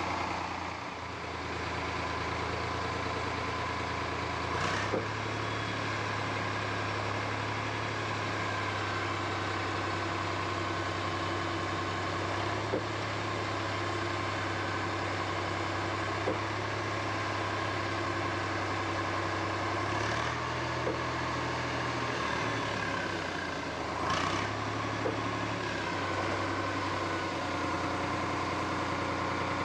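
Eicher 485 tractor's diesel engine running steadily at low speed. Its note steps up slightly about five seconds in and shifts again near twenty seconds. A few faint knocks sound over it.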